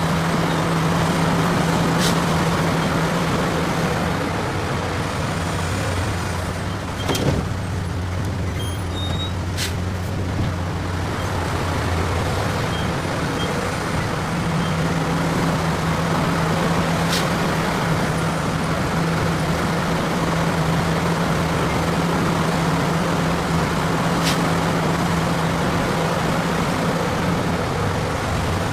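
Heavy diesel machinery running steadily, its engine note shifting for several seconds early on, with a few sharp knocks scattered through, the loudest about seven seconds in.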